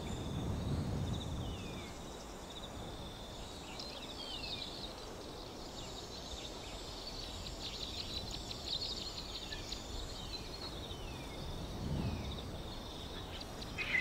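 Birds giving short, falling chirps every second or two, over a steady insect trill and a low outdoor hiss.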